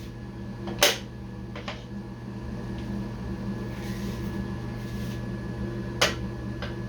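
A few sharp clicks and knocks of metal parts being handled and fitted on an old all-metal sewing machine, over a steady low hum.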